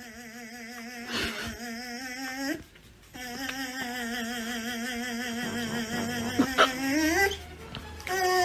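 A dog howling in long, wavering drawn-out notes: one held note, a short break, then a longer one that slides upward near the end.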